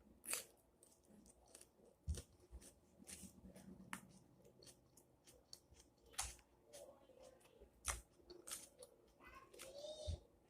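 Faint chewing and crunching of a chicken salad, with many small sharp clicks and crackles and a few louder ones about two, six and eight seconds in.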